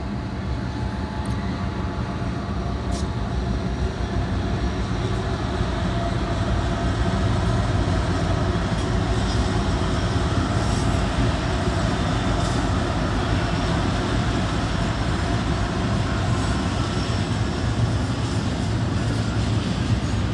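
Double-stack container freight train rolling past: a steady rumble of wheels on rail that grows louder over the first several seconds and then holds.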